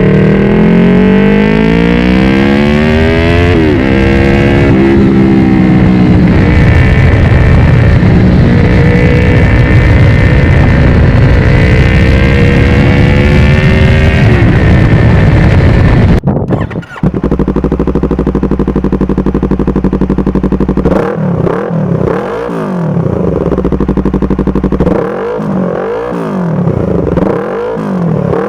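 Motorcycle engine through an SC-Project aftermarket muffler accelerating hard, its pitch rising, dropping once at a gear change about four seconds in, then climbing again and held high. The sound cuts off suddenly, followed by a motorcycle idling with several quick throttle blips that rise and fall near the end.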